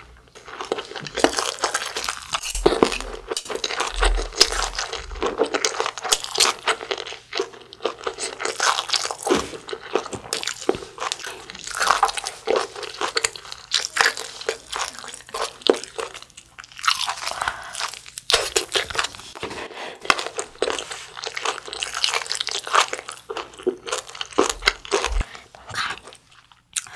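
Close-miked chewing of fermented skate: a dense, steady run of crunchy bites and wet mouth sounds.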